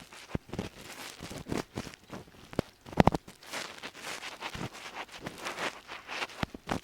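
Ear pick scraping and rubbing in an ear canal in irregular scratchy strokes, with small crackles and a louder, sharper bump about three seconds in.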